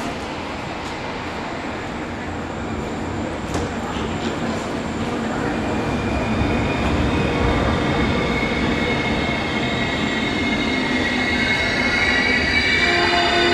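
A train approaching, its rumble growing steadily louder, with a few clicks in the first half. From about halfway through, high wheel squeal rises and is strongest near the end.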